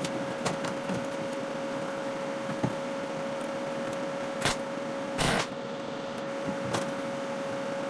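A steady electrical or machine hum with a few scattered knocks of metal and a short scraping rasp about five seconds in, as a steel gearbox bracket is worked into place in a car's engine bay.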